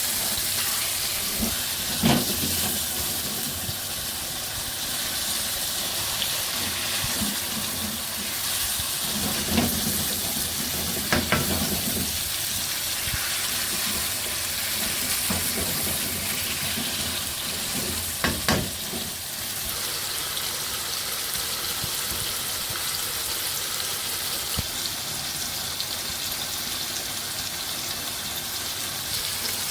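Chicken frying in a pan with onion, tomatoes and spices: a steady sizzling hiss, with a few sharp knocks of a spoon as it is stirred.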